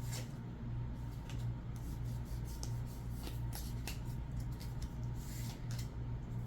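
Pokémon trading cards being handled and slid against one another, with scattered soft rustles and clicks over a steady low hum.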